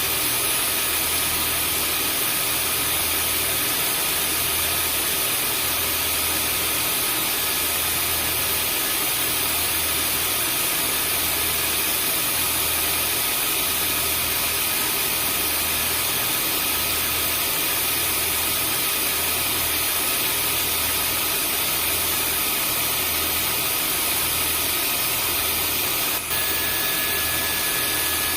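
Vacuum cleaner running steadily: a constant rushing hiss with a motor whine and a low throb pulsing about once a second. Near the end there is a momentary dip, and a new whine tone joins.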